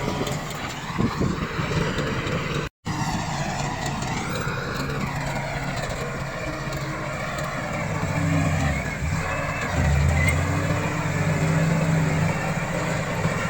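Komatsu D68 crawler bulldozer's diesel engine running under load. The sound cuts out completely for a split second about three seconds in. The low engine note grows louder from about eight seconds.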